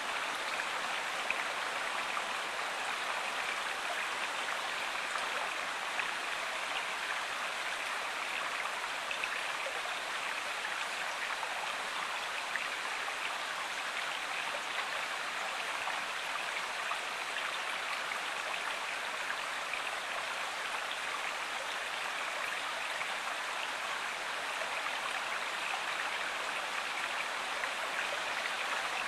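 Steady rushing and babbling of a flowing stream or river, even and unbroken.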